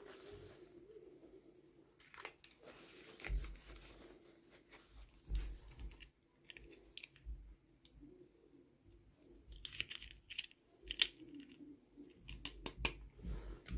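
Packaging being handled and opened by hand: scattered soft crinkles, small tears and light clicks, bunched more closely near the end.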